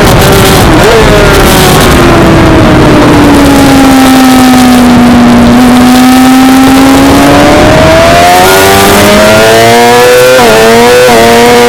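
Suzuki GSX-R600 inline-four racing motorcycle engine. Its pitch falls steadily for several seconds as the bike slows, with a brief blip about a second in. It then climbs again under acceleration, with two quick gear changes near the end.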